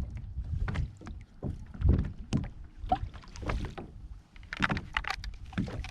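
Irregular knocks and scuffs on a kayak as gear and the catch are handled, over a steady low rumble of water and wind on the microphone.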